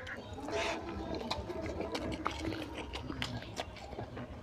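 Close-up eating sounds: wet chewing and lip smacking, with a rapid scatter of short clicks, as curry and rice are eaten by hand.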